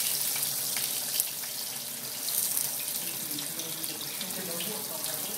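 Tofu frying in hot oil in a nonstick pan, a steady sizzle, with a few light clicks of chopsticks against the pan and food as the pieces are turned.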